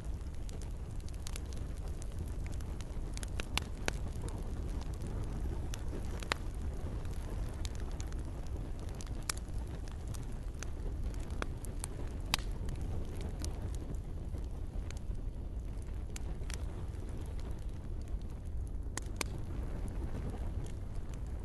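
Wood campfire crackling: frequent sharp, irregular pops and snaps over a steady low rush.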